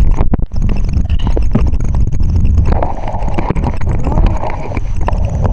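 Wind buffeting the microphone with a low rumble during a bike ride, with a steady run of knocks and rattles from the bike.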